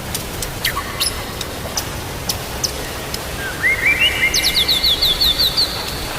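Steady rain with scattered sharp drop clicks. Past the midpoint a songbird sings a short phrase: a few rising whistled notes, then a quick run of about eight short falling chirps.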